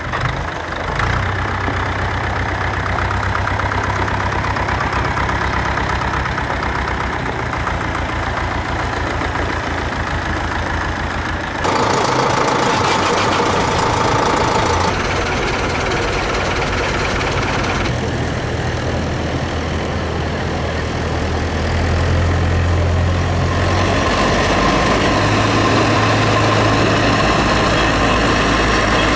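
Tractor engines running steadily at idle. The engine sound changes abruptly about twelve seconds in and again about eighteen seconds in, as one running engine gives way to another.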